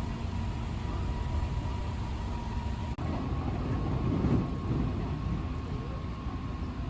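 Steady low rumble of a moving vehicle, with a faint thin steady whine over it and a sudden break about three seconds in.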